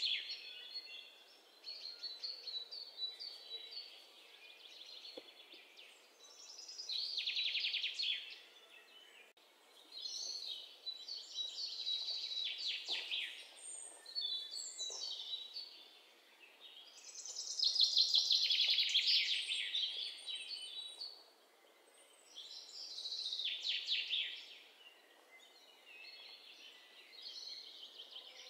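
Birds singing: trilling phrases a second or two long, repeated every few seconds.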